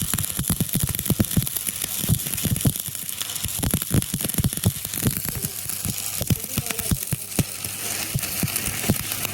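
Stick-welding arc crackling and sizzling without a break, with many irregular sharp pops over a steady hiss.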